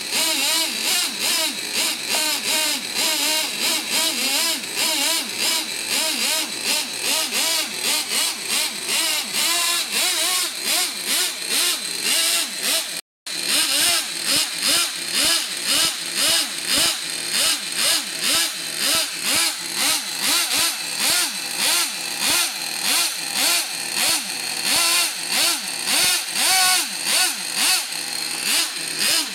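Twin nitro engines of a Traxxas T-Maxx RC truck running and being revved in quick blips, rising and falling about twice a second. The sound cuts out briefly about 13 seconds in. Both engines run well but still need some tuning.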